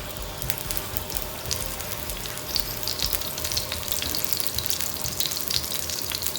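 Green chilies frying in hot oil on a griddle at 400 °F: a steady sizzle with scattered sharp pops of spitting oil, growing busier about halfway through.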